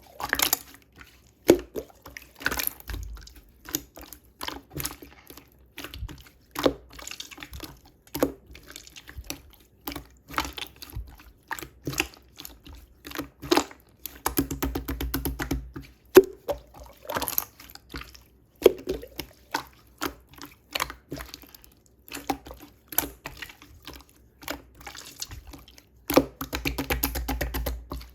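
Wet, liquid handling sounds: irregular sharp clicks and drips, with two longer stretches of steady liquid noise about halfway through and near the end.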